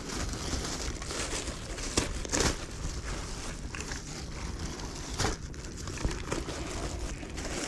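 Plastic bin bag crinkling and rustling as it is handled and pulled open, with a few sharp crackles.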